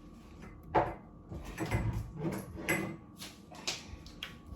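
Irregular knocks and clatter of kitchen things being handled and moved about, as when a cupboard is rummaged through: about a dozen short hits over a few seconds.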